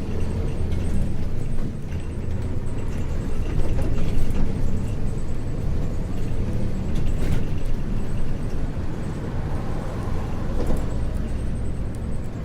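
Isuzu U-LV224N bus's 6QB2 diesel engine running under way, heard from inside the bus: a steady low drone that falls and rises in level, with a few sharp clicks about four and seven seconds in.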